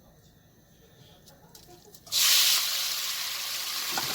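A few faint clicks, then about two seconds in a loud sizzle starts suddenly as food goes into a hot pan for stir-frying, and it keeps sizzling steadily.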